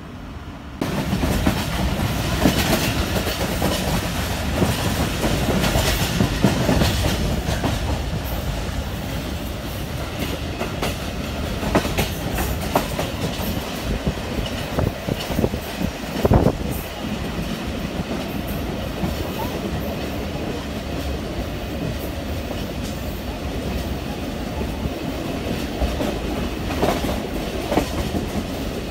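Rehman Baba Express passenger train running, heard from aboard: a steady rumble with irregular clatter of the wheels over the rails and one louder knock about halfway through. The sound steps up in loudness about a second in.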